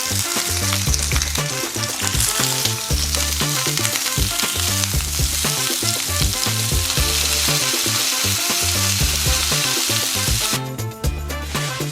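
Chicken skewers sizzling as they fry in a flat frying pan, a steady hiss that stops shortly before the end. Background music with a steady bass beat plays underneath.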